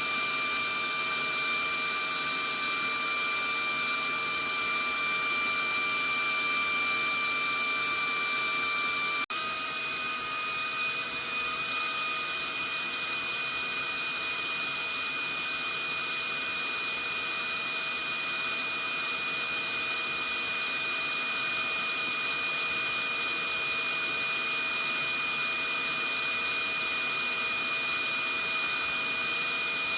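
Vacuum cleaner running steadily: a rush of air with a high motor whine. About nine seconds in there is a brief dropout, after which the whine sits slightly higher and a little louder.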